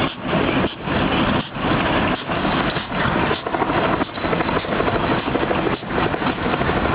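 Train running past: a loud, steady rushing noise that dips in a regular beat about every two-thirds of a second.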